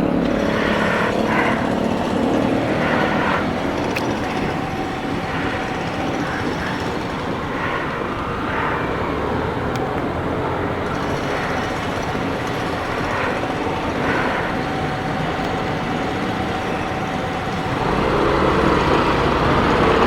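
Motorcycle engine running with road noise while riding, picked up by a helmet camera's external microphone. It grows louder near the end.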